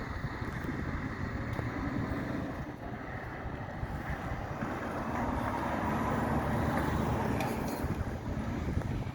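Wind buffeting the microphone over a low rumble of road vehicles, with a faint steady tone rising in the second half.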